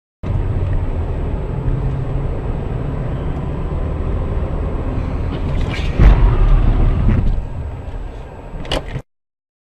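Car interior with steady engine and road rumble, then about six seconds in a loud sudden collision impact, followed by clattering that dies down and one more sharp knock near the end.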